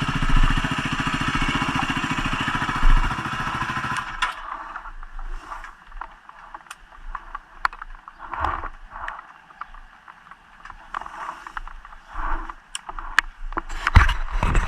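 Yamaha WR250R's single-cylinder four-stroke engine idling, then switched off suddenly about four seconds in. After that come scattered light clicks and rustles.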